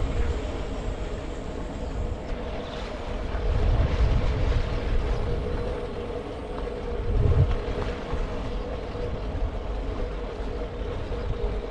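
Riding noise on a bicycle-mounted GoPro: wind rumble on the microphone, with road and traffic noise and a steady hum throughout, the rumble swelling about four seconds in and again near the middle.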